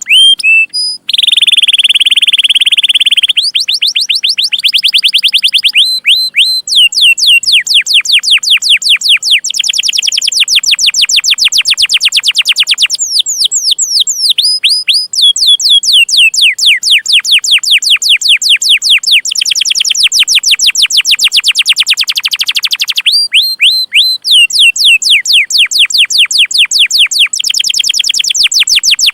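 Domestic canary singing: long runs of fast, repeated downward-sweeping chirps ('cuit cuit') broken by brief pauses, with a held buzzy note near the start.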